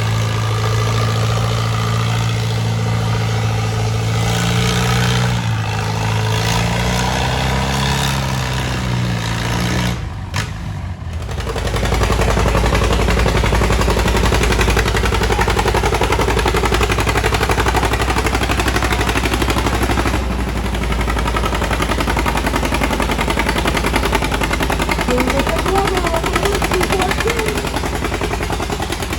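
Antique tractor engine running steadily, its pitch wavering a little. After a brief break about ten seconds in, a tractor engine runs hard under load with rapid exhaust pulses, as in a pull down the track.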